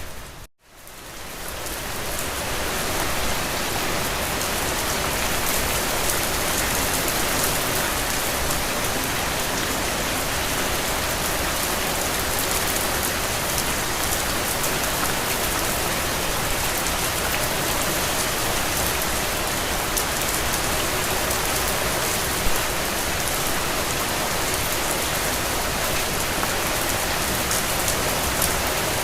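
Steady rain falling on a surface, an even hiss of many drops. About half a second in the sound cuts out briefly, then fades back in over the next couple of seconds.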